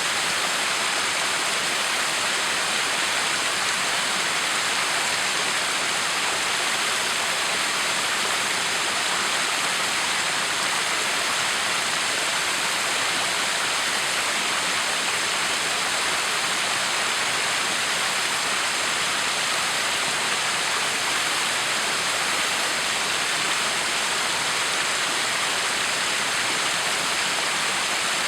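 Backyard waterfall: water falling and splashing in a steady, unchanging rush.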